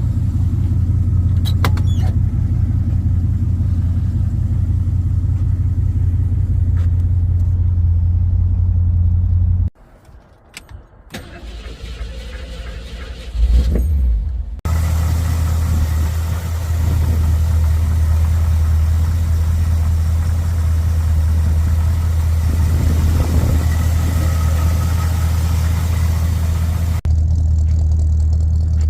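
1964 Ford Galaxie 500's V8 engine running steadily. About ten seconds in it drops away to a quieter stretch with a few clicks and a brief loud low rumble. It then runs again with an added hiss, which falls away near the end.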